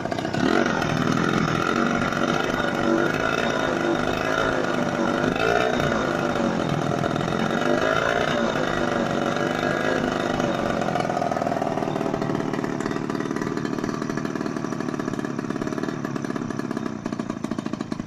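Small scooter engine running steadily, with its pitch rising and falling a few times in the middle as it is revved lightly.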